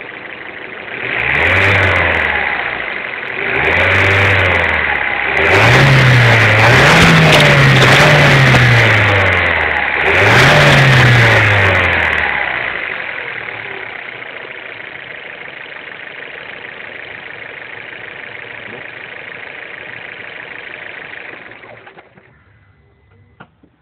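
Opel Z20LEH 2.0 turbo four-cylinder petrol engine blipped twice, held at high revs for several seconds, blipped once more, then left to idle steadily before the engine sound cuts off near the end. A steady high whine runs under the engine note. The owner reports a strange noise from the engine on a remapped ECU file.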